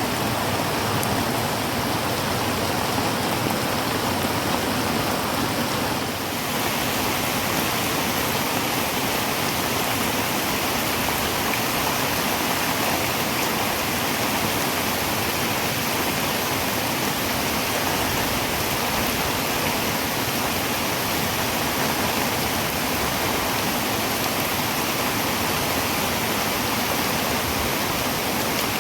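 Heavy rain on a tin roof: a steady, dense hiss of rain. About six seconds in the sound dips briefly and then turns slightly brighter.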